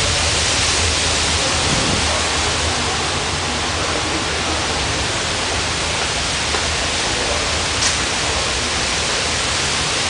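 Strong squall-line storm wind rushing steadily, with low rumbling buffeting on the microphone. A single faint click about eight seconds in.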